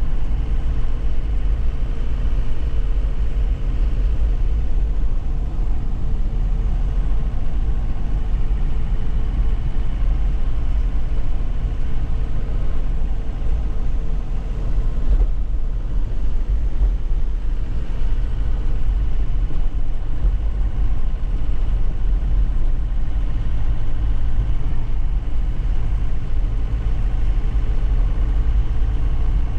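2001 Nissan Cabstar light truck's engine running under way, heard from inside the cab with steady low road and tyre noise from a rough surface. A faint whine sits over it and weakens about halfway through.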